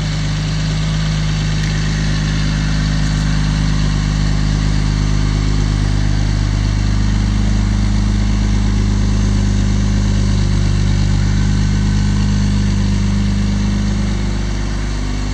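1969 Mercedes 280SE engine idling steadily with the hood open, its note shifting slightly about halfway through.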